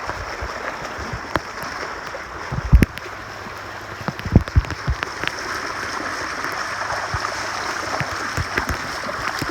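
Shallow floodwater rushing along a street in a steady, even wash. A few low thumps come about 3 and 4.5 seconds in.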